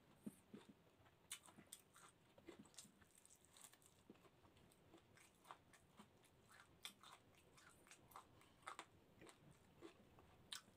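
Faint, close chewing with scattered wet mouth clicks and smacks as a person eats grilled chicken gizzards and rice by hand.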